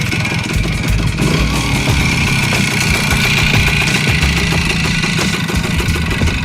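Voskhod 3M motorcycle's single-cylinder two-stroke engine running steadily.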